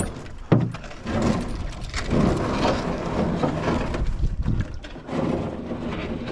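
Canoe hull scraping and knocking as it is scooted off the shore into the water, with a sharp knock about half a second in and irregular scraping and shuffling after.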